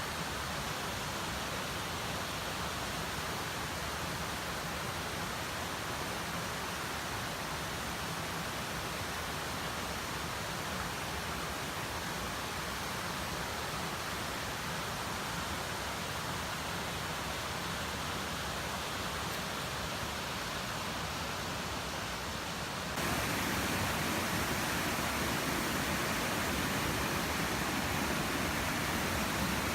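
Steady rush of falling water from a waterfall. About three-quarters of the way through, it cuts abruptly to a louder, fuller rush.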